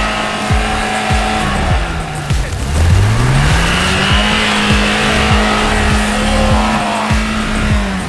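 An off-road 4x4's engine held at high revs, dropping away about two seconds in and climbing back up over the next second. Background music with a steady beat plays over it.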